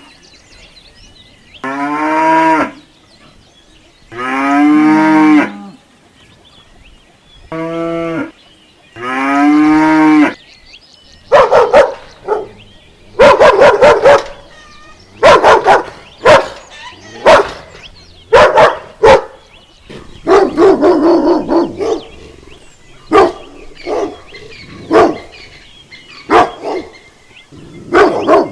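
Pigs calling: first about five drawn-out calls about two seconds apart, each rising and then falling in pitch, then from about eleven seconds in a quick run of short, sharp grunts and squeals.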